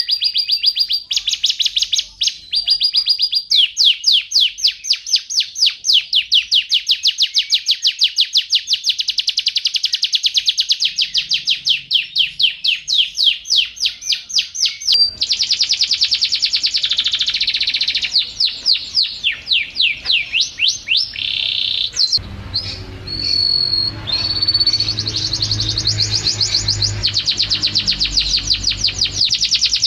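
Domestic canary singing a long run of fast trills, rapid repeated high notes that switch to a new trill pattern every few seconds. A low background rumble joins in about 22 seconds in.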